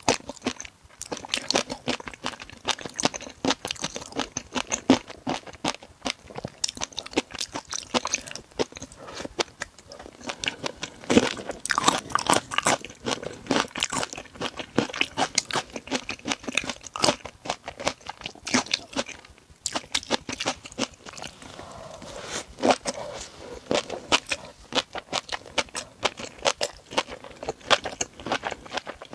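Close-miked chewing of shrimp, a dense run of crisp crunches and crackles.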